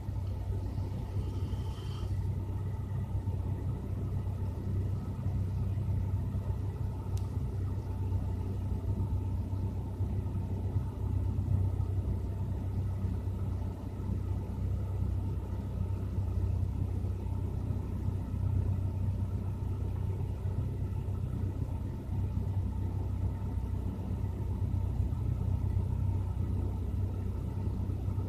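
Lada Granta's VAZ-21126 1.6-litre 16-valve four-cylinder engine idling steadily as it warms up after a winter cold start.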